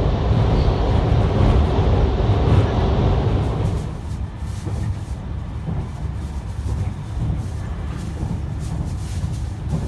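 Cabin running noise of an E651 series electric train under way: a steady low rumble of wheels on rail that becomes noticeably quieter about four seconds in.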